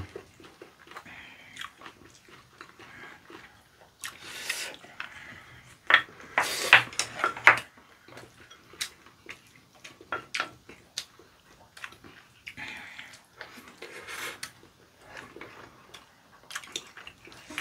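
Close chewing of raw squid sashimi and rice, with scattered sharp clicks of chopsticks and a spoon against ceramic bowls. The loudest run of eating noise comes about six to seven and a half seconds in.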